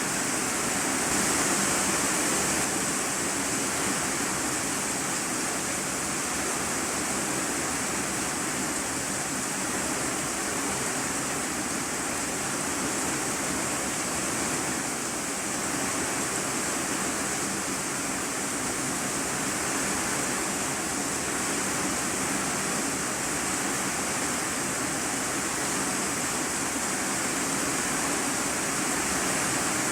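Steady rain falling on an iron-sheet roof, heard from inside the room beneath it: an even, unbroken hiss, brightest in the high treble.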